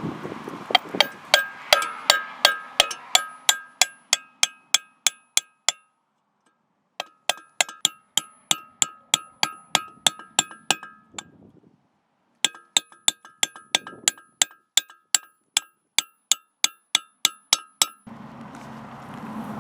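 Hammer blows on steel, about four sharp ringing clanks a second, in three runs with short pauses between them.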